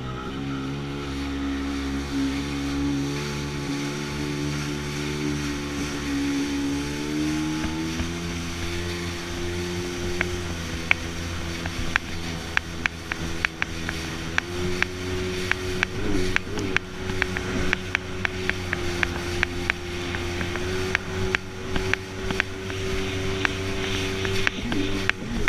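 Jet ski engine running steadily. Its pitch climbs as it speeds up about seven seconds in, then holds. Frequent sharp knocks come through from about ten seconds in.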